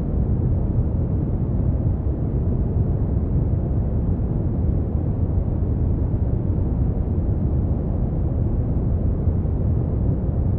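Steady brown noise: an even, deep rushing hiss, strongest in the low bass and falling away towards the treble, with no changes.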